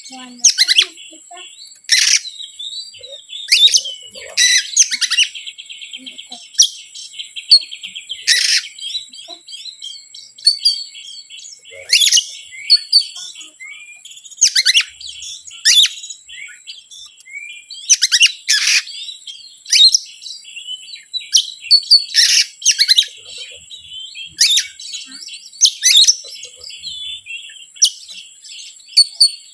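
Oriental magpie-robin (kacer) singing: loud, sharp notes repeated about every one and a half to two seconds over softer continuous chattering, with a steady high-pitched whine behind. This is the kind of kacer song used to provoke other magpie-robins.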